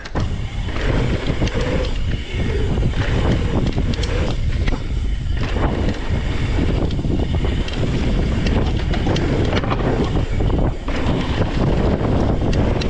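Wind rushing over the microphone of a mountain biker riding fast down a trail, a steady low rumble with brief knocks from the bike running over bumps.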